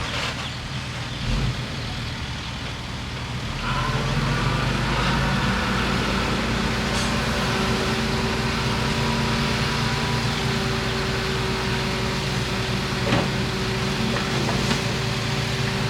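Bulldozer's diesel engine running under load. It eases off at the start, picks up again about four seconds in, then holds steady, with a few faint knocks near the end.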